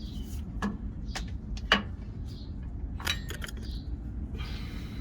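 Metal hand tools and sockets clinking and knocking together as they are sorted and picked up, in a handful of separate clicks with a quick cluster of them about three seconds in.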